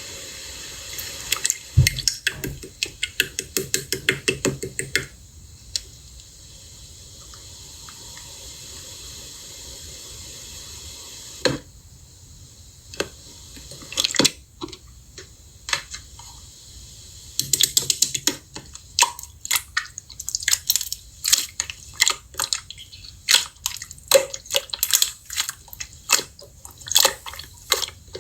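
Hands squishing and poking slime, making wet clicking pops. At first the pops come about four a second. They give way to a quieter stretch of faint hiss and scattered pops, then grow into dense, continuous crackling near the end.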